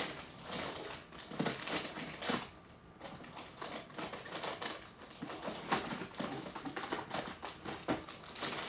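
Irregular clicks, taps and light crinkling of small objects and packaging being handled, as someone rummages for a snack.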